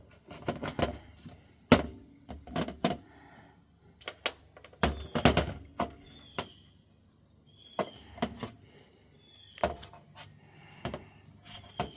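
Small metal engine parts and a screwdriver clicking, tapping and clattering in irregular knocks as a small RC nitro engine is taken apart by hand, with a few short high squeaks.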